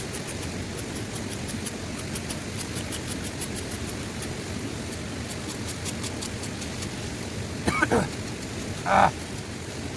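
Steady rain hiss with many sharp raindrop taps, which thin out about two-thirds of the way in. Near the end come two short louder sounds: a falling-pitched sweep, then a brief burst about a second later.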